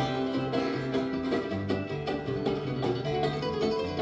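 Bluegrass band playing an instrumental break between sung lines, led by rapidly picked banjo with guitar and a walking bass line.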